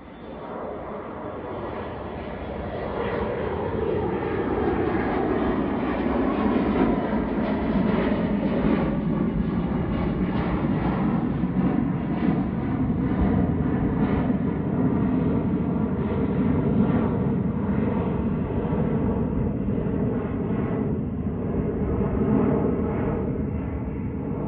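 Fixed-wing aircraft engines at takeoff power as a plane takes off, building up over the first few seconds and then holding loud and steady, with a tone sliding down in pitch early in the run.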